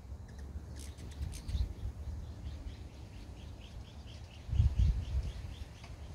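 A small bird calling: a few sharp chips about a second in, then a run of short, evenly spaced high notes at about four a second. Wind gusts rumble on the microphone, strongest a little past the middle.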